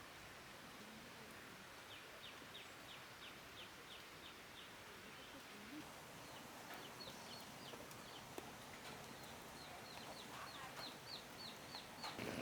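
Faint bird chirping: a run of short, high, falling notes about four a second, a pause, then a longer run that climbs a little in pitch near the end, over a faint outdoor hiss.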